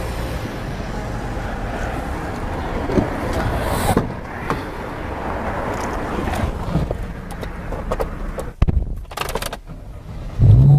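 Traffic and car noise outdoors: a steady rumble with a few short knocks. Music starts near the end.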